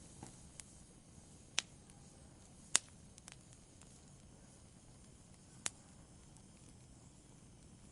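Wood fire crackling: a soft steady hiss with occasional sharp pops, three of them plain, the loudest about three seconds in.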